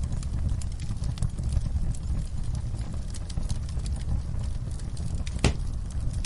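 Wood fire burning in a fireplace: a steady low rumble with frequent small crackles and snaps, and one louder pop about five and a half seconds in.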